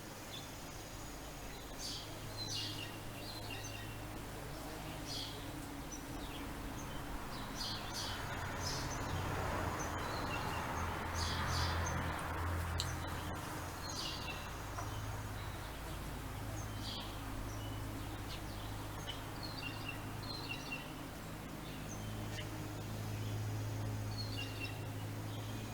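Small birds chirping and calling in short, repeated bursts, over a steady low hum of background traffic and mower engines that swells to its loudest about halfway through.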